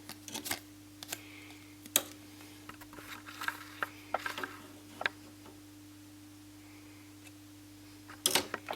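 Scattered small clicks and taps from hands handling a flat ribbon cable and its connector on a TV circuit board as the cable is unplugged, with a quiet stretch before a cluster of clicks near the end. A faint steady electrical hum lies underneath.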